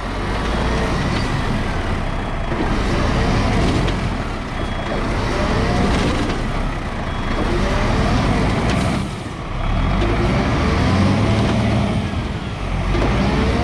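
Vehicle engines revving hard under load as a car stuck in a hollow is towed out on a rope, the revs rising and falling, with two brief drops in the noise.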